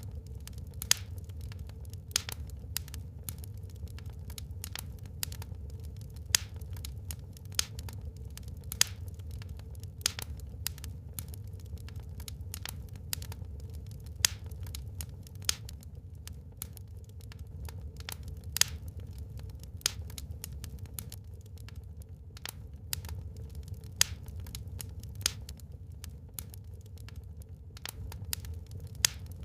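Wood fire crackling in a fireplace: irregular sharp pops and snaps, a few of them loud, over a steady low rumble.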